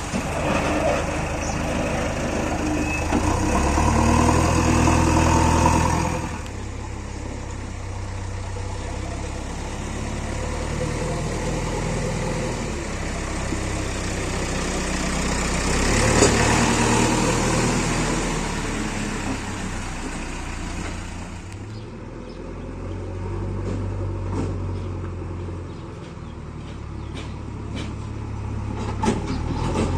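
Heavy diesel engine running, its revs rising and falling several times, with a few sharp knocks near the end.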